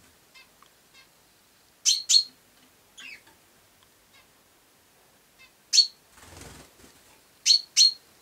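Sparrow chirping: sharp, loud single chirps, mostly in quick pairs, about two seconds in, near six seconds and near the end, with fainter chirps between. A brief soft rustle follows the middle chirp.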